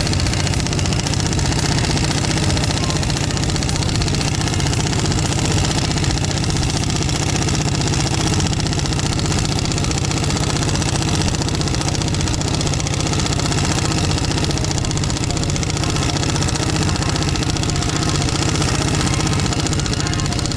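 Impact wrench hammering steadily on a harmonic balancer puller's screw, a continuous rapid rattle. The balancer is tight on the crankshaft of a MerCruiser 4.3 V6 and has not yet come free.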